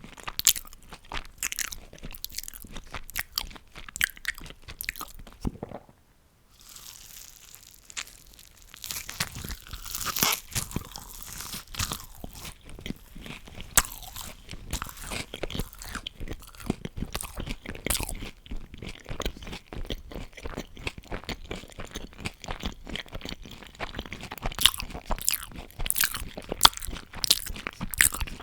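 Close-miked ASMR eating: crunchy bites and chewing of fast food, with a short lull about six seconds in before the crunching picks up again.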